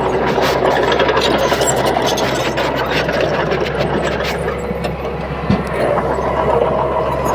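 Komatsu D31P crawler bulldozer's diesel engine running steadily, with scattered light metallic clicks and one sharp knock about five and a half seconds in.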